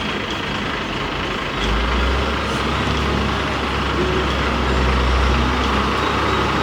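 A steady engine rumble with a deep hum underneath, which grows louder about a second and a half in.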